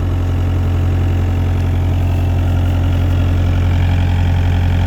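Kubota excavator's diesel engine running steadily at idle.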